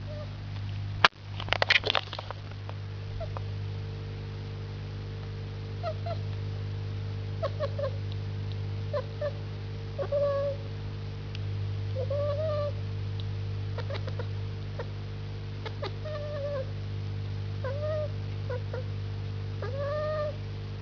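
A house cat making short, chirping, bird-like calls at birds it is watching, the typical chirp-and-chatter of a cat fixed on prey it cannot reach; the calls come one every second or so, each a brief rise and fall in pitch. A sharp knock with a short crackle comes about a second in, over a steady low hum.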